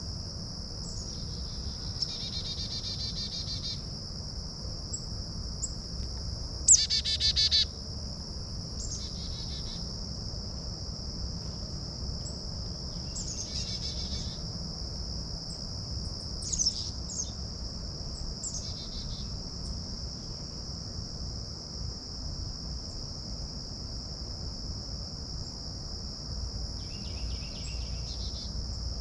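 A steady high-pitched insect chorus with songbirds calling over it every few seconds. The loudest call, about seven seconds in, is a sharp chirp run into a short rapid series; another sharp chirp comes at about sixteen seconds.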